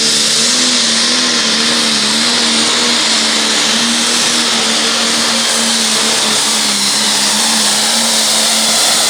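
Turbocharged diesel engine of a John Deere pulling tractor held at full throttle under heavy load while pulling the weight-transfer sled, a loud steady drone whose pitch barely wavers, with a hiss of turbo and exhaust over it.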